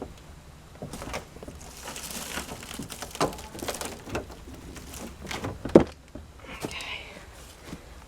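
Scattered knocks, clicks and clatter of hands-on work, with one louder knock a little before six seconds in.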